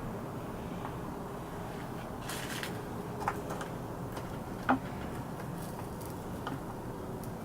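A few light clicks and taps over a steady low hum, the sharpest click about four and a half seconds in, with a brief scratchy hiss a little after two seconds.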